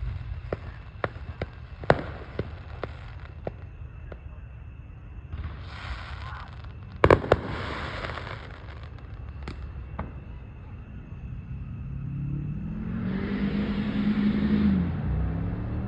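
Fireworks going off: a run of sharp crackling pops in the first few seconds, a hiss, then two loud bangs about seven seconds in and a few scattered pops. Near the end a car drives up close, its engine growing louder and rising in pitch, then dropping.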